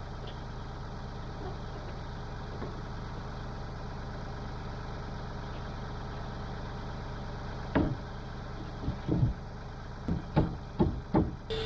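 A small engine running steadily at idle. Near the end comes an irregular run of about seven sharp knocks over three or four seconds.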